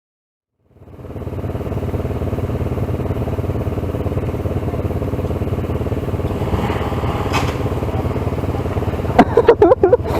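Motorcycle engine running steadily, fading in after about a second of silence. A voice joins near the end.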